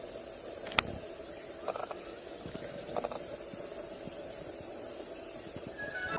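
Steady high-pitched insect chorus, with a sharp click about a second in and a few short, faint calls.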